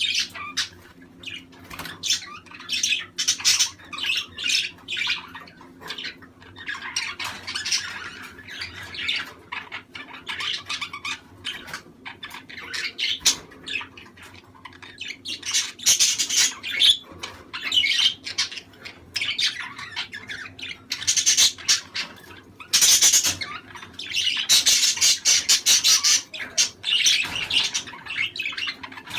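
Budgerigars chattering and squawking in a dense, irregular warble of short high-pitched calls, busiest in the second half, over a faint steady low hum.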